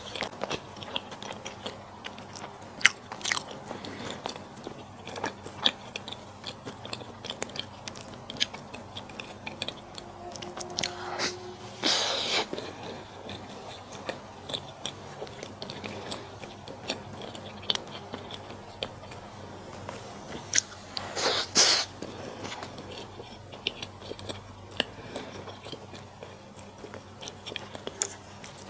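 Close-miked eating of malatang: a run of small wet clicks from biting and chewing. Two louder, longer rushes of noise come about 12 seconds in and again about 21 seconds in.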